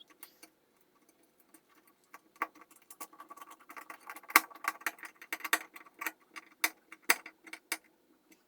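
Irregular light clicks and taps of small parts and hand tools being handled, sparse at first, then thick and busy, with one sharper tap a little over four seconds in.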